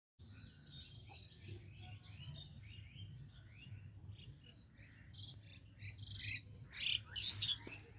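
Small birds chirping in quick short calls over a faint, steady, pulsing high trill, with a few louder, rougher bursts near the end.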